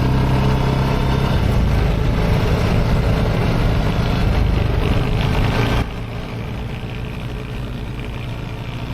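Off-road buggy engine running steadily. About six seconds in, the sound steps down to a quieter engine sound.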